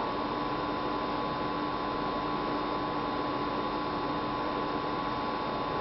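Steady electrical hum over an even hiss, with no other event.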